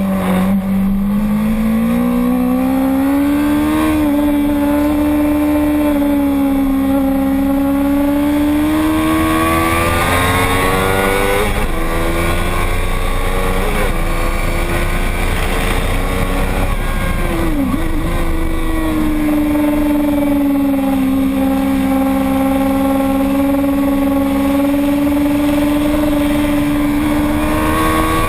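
A single racing motorcycle engine running hard at high revs. Its pitch climbs and falls with the throttle, and it dips sharply and recovers once past the middle, as at a gear change.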